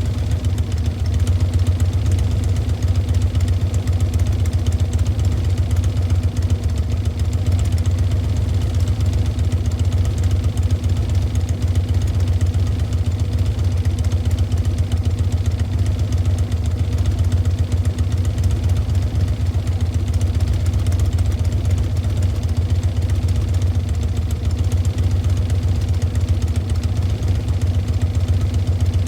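2007 Harley-Davidson Dyna Low Rider's Twin Cam 96 V-twin idling steadily through Chrome Works 3-inch slip-on mufflers, with no revving.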